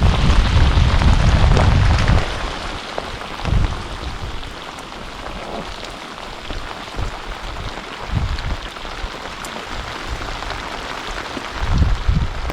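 Steady rain falling, with a heavy low rumble in the first two seconds and again near the end.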